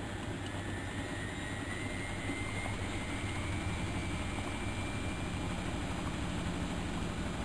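Miele Novotronic washing machine running: a steady mechanical noise with a low hum, and a faint motor whine that rises slightly in pitch over the first few seconds, then holds steady.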